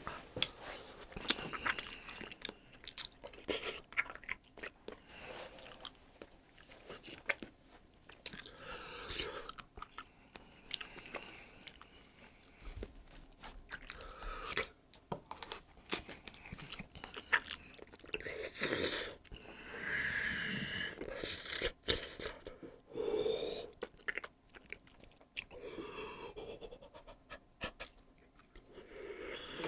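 Close-up chewing and crunching of the world's hottest chip, with many short, sharp crackles throughout and a longer breathy hiss of air about two-thirds of the way through.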